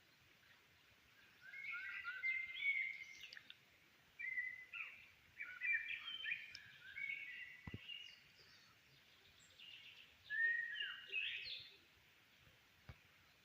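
Songbird singing in bursts of quick, chirping, warbling phrases, separated by short pauses.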